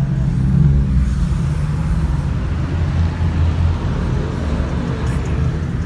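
Car engine and road rumble heard from inside the cabin: a steady low drone.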